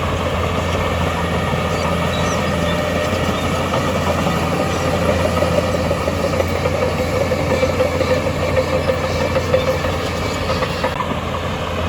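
Heavy diesel earthmoving machinery running, a steady low engine drone with some clanking, swelling a little in the middle.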